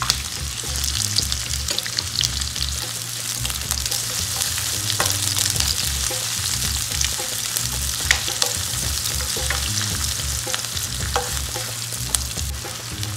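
Chopped red onion and garlic sizzling in hot vegetable oil in a nonstick frying pan while being stirred, with scattered sharp ticks from the utensil and the pieces against the pan. A steady low hum lies underneath.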